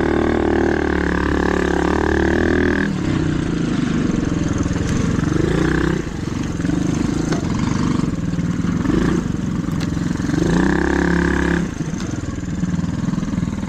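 Mini dirt bike engine running and being revved: steady for the first few seconds, then climbing in pitch several times, with brief dips in between.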